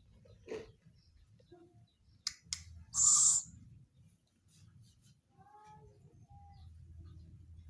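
Tame owl giving short, high hissing calls about five seconds apart, with a couple of sharp clicks in between.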